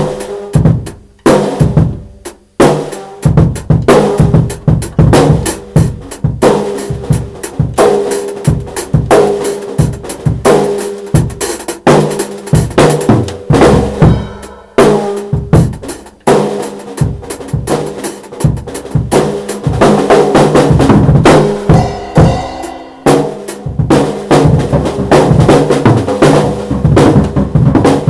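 Drum kit being played in a continuous groove, with dense bass drum and snare hits and rimshots, over steady pitched notes.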